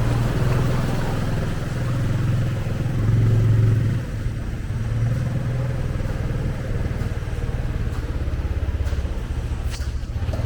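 Small motorcycle engine running steadily; it grows louder about three seconds in, then drops off suddenly about four seconds in and goes on at a lower, even level.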